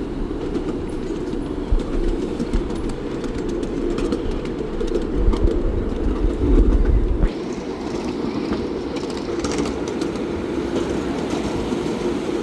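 Train running on the track: a steady rumble with small rattling clicks. About seven seconds in, the deepest rumble eases and a higher hiss comes in.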